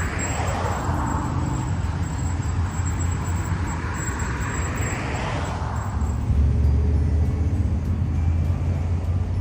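Street traffic: vehicles going by, with a deep engine rumble that swells about six seconds in.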